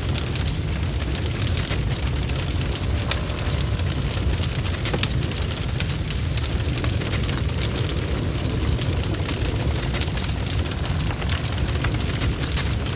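Bonfire crackling, with frequent sharp pops and snaps over a steady low rumble of the flames.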